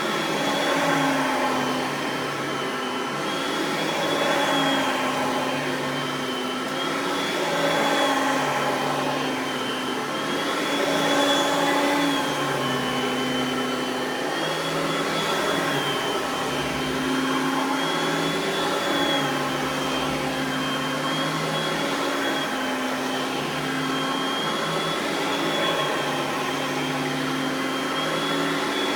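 Oreck XL Platinum upright vacuum with its dual-speed 3.5 amp motor running on high speed. The motor's whine rises and dips in pitch and loudness about every four seconds.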